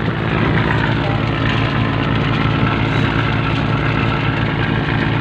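A cantrang fishing boat's engine running steadily at a constant speed, a low, even drone.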